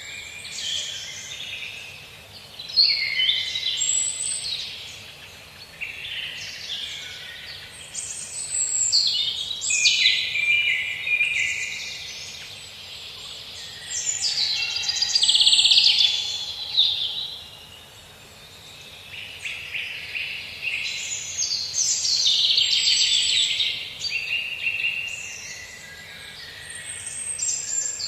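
Songbirds singing, with bursts of high chirps and twittering phrases following one another every few seconds, over a faint steady hiss.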